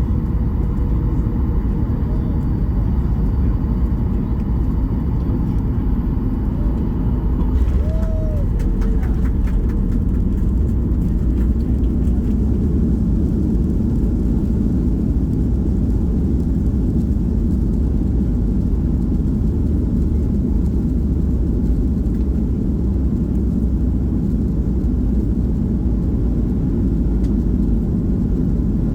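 Steady low rumble inside the cabin of a Boeing 737 MAX-8 as it rolls on the ground after landing: its CFM LEAP-1B engines at low power and the wheels and airframe on the pavement.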